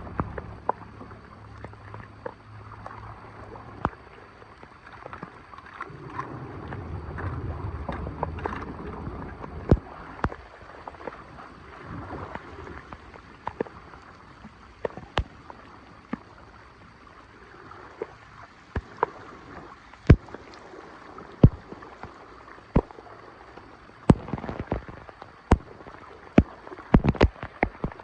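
Water running and gurgling into a storm drain, with many sharp, scattered knocks and clicks that come thicker near the end. A low rumble swells and fades about six to nine seconds in.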